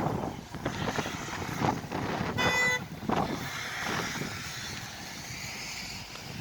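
Road traffic in a snowstorm, a steady noisy rumble of engines and wind, with one short car horn honk about two and a half seconds in.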